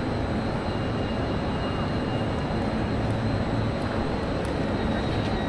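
Steady rumble and hum of trains standing at the platforms of a large station train shed, with a faint steady high whine.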